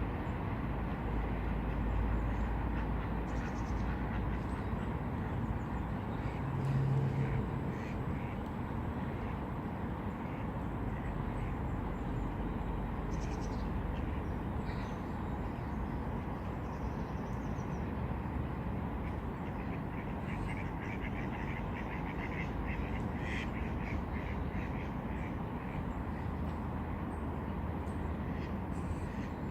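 Outdoor ambience: a steady low rumble with bird calls over it, scattered short chirps and a quick run of calls about two-thirds of the way through. A brief low hum sounds about seven seconds in.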